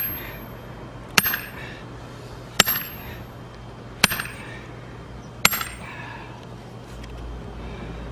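Four hard, evenly spaced blows about one and a half seconds apart, each with a bright metallic clink, as an axe is driven into a log to split firewood. The strikes stop about two-thirds of the way through.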